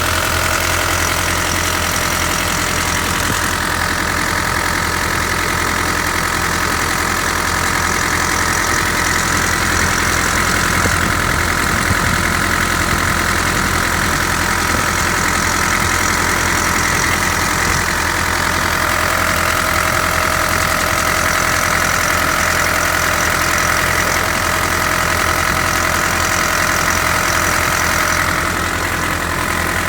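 Mitsubishi Pajero's 3.2-litre four-cylinder turbo diesel engine (4M41) idling steadily.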